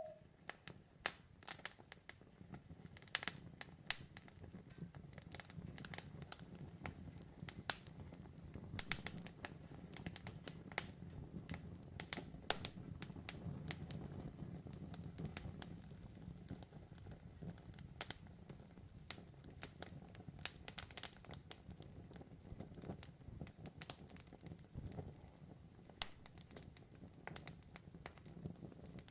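Wood fire burning, with irregular sharp pops and crackles scattered throughout over a soft, steady low rumble.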